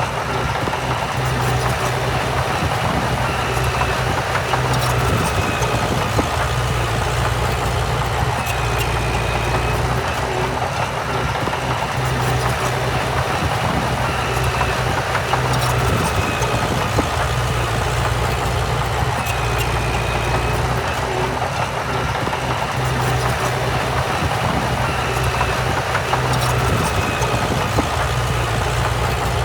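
Diesel engine of heavy earthmoving machinery running steadily, with a deep, even drone and a few faint clicks.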